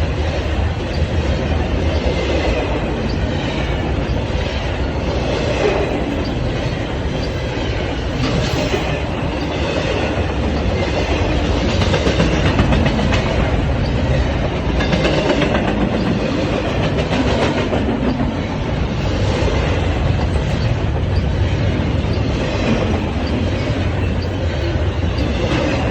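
Union Pacific intermodal freight train rolling past: a steady rumble of steel wheels on rail, with repeated clicks as the wheels cross rail joints.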